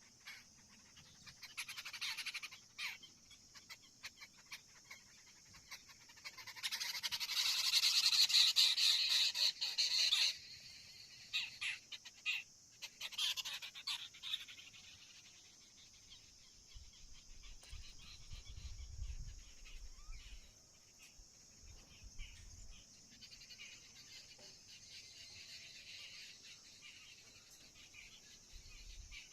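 Birds calling in short, harsh, raspy bursts, loudest and densest for about three seconds, starting about seven seconds in, over a thin, steady high-pitched hum. Low rumbles come in the middle.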